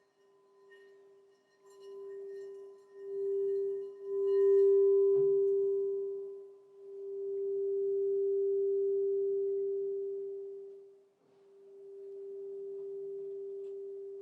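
Crystal singing bowl ringing one steady, pure tone that swells and fades several times, with a light knock about five seconds in.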